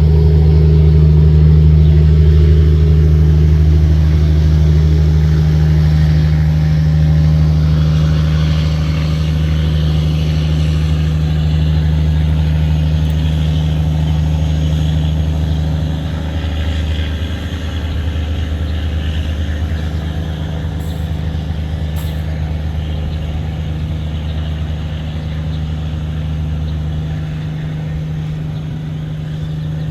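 Tugboat diesel engine running steadily, a deep drone that eases off slightly in the second half.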